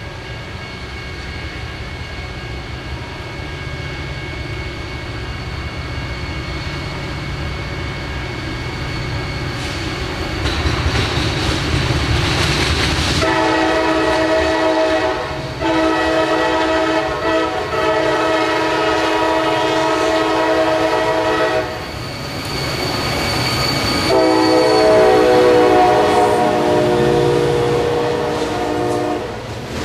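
Diesel freight train approaching with a rumble that grows steadily louder. Its locomotive air horn then sounds long, chord-like blasts, first from about halfway in with a short break, then again near the end as the locomotive passes at its loudest. Freight cars roll by at the end.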